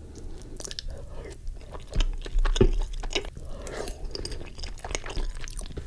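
Close-miked wet chewing and mouth sounds of a person eating cheesy lasagna, with many small lip smacks and clicks. A louder dull bump comes about two seconds in.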